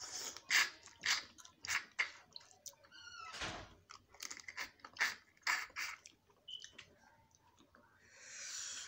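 Snow crab legs being bitten and chewed: a quick run of wet smacks and crunches as the meat is pulled from the shell, thinning out after about six seconds.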